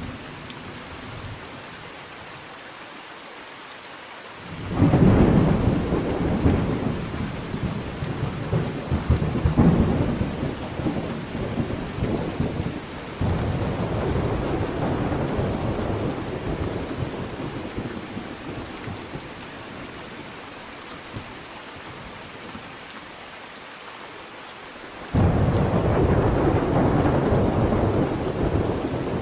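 Steady rain falling through a thunderstorm, with two rolls of thunder. The first breaks in about five seconds in and rumbles on, slowly fading, for about fifteen seconds. The second starts suddenly near the end.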